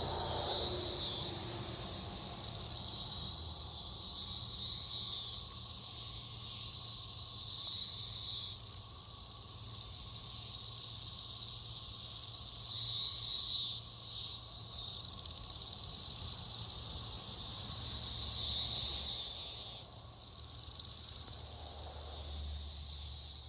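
Chorus of periodical cicadas: a dense, high, continuous buzzing that swells louder for a second or so every few seconds, then eases off a little near the end.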